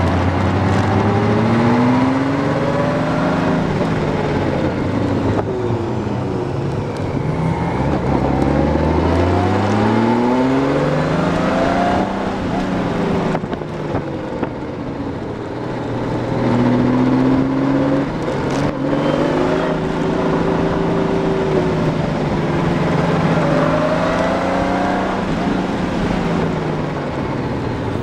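Honda Gold Wing motorcycle engine heard from the rider's seat behind the windscreen, its pitch climbing and dropping back again and again as it accelerates, shifts and slows through the corners, over a steady rush of wind noise.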